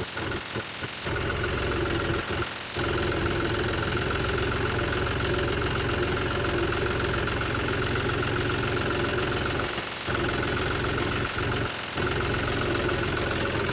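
Heavy diesel engine running steadily, settling into an even note about a second in, with a few short dips in level.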